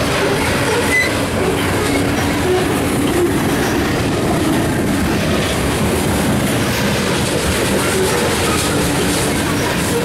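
Loaded coal hopper cars of a freight train rolling past at close range: a steady rumble and clatter of steel wheels on the rails, with a few brief, faint wheel squeals.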